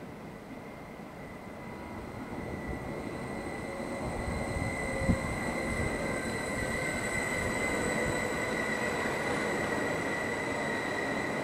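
A BRB electric multiple unit runs into the platform, its rumble growing louder, with a steady high-pitched squeal over it. A single sharp knock sounds about five seconds in.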